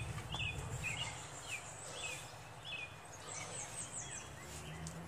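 Birds chirping: a quick run of short, repeated notes in the first two seconds, then a few higher, thinner calls near the end, over a steady low background noise.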